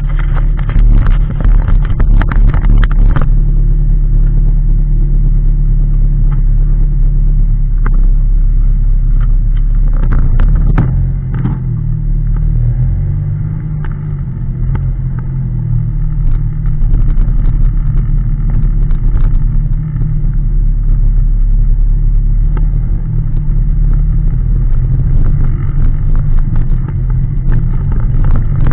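Car engine running as the open-top roadster drives along, heard from inside the open cabin, with a low rumble. The engine note shifts and eases off in the middle, then picks up again, and sharp knocks and rattles come in the first few seconds and again about ten seconds in.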